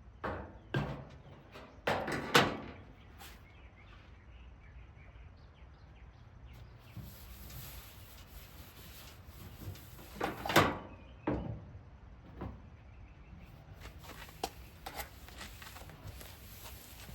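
Metal clunks and knocks as a part is popped off a 1967 VW Beetle's hood and handled. The loudest clunks come about two seconds in and again about ten and a half seconds in, with lighter taps between.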